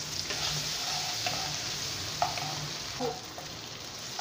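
Poppy-seed and cashew paste sizzling in hot oil in a non-stick kadai while a wooden spatula stirs it. A few short scrapes of the spatula on the pan sound about a second apart.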